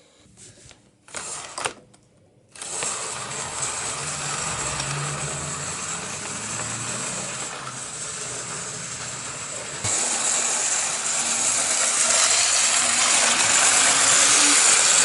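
OO gauge model steam locomotive's small electric motor and gears whirring as it runs along the track. It starts suddenly after a few faint clicks and gets louder about ten seconds in.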